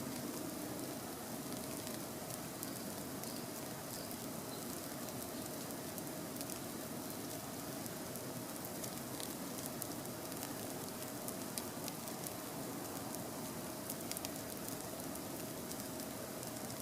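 Campfire burning: a steady hiss with frequent sharp crackles and pops from the wood, and a faint steady hum underneath.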